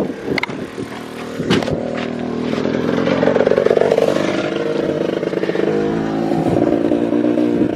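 A couple of knocks, then a dirt bike engine running from about two seconds in. It speeds up briefly around the middle and settles back to a steady run.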